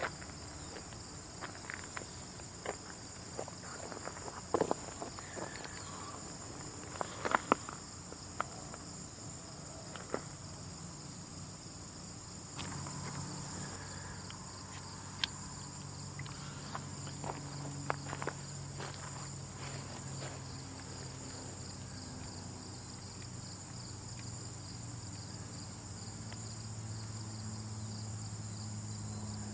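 Ant-colony sound effect: a steady high insect chirring with scattered small clicks and ticks. A low hum comes in about halfway through.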